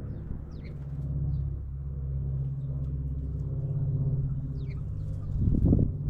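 A steady low engine hum, with a few short, faint, high bird chirps above it and a louder rumble swelling near the end.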